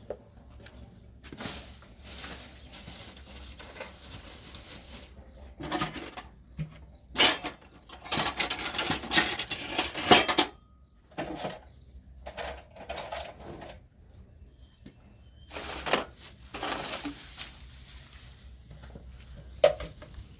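Kitchen clatter of dishes, pots and utensils being handled, in irregular knocks and scrapes with a busier stretch in the middle.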